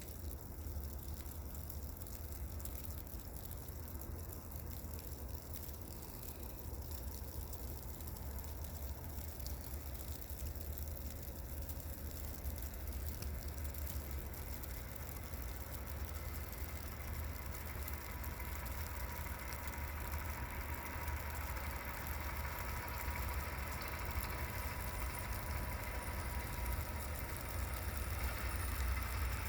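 Vehicle on a snow- and slush-covered road: a steady low engine and road rumble under tyre hiss, growing a little louder near the end.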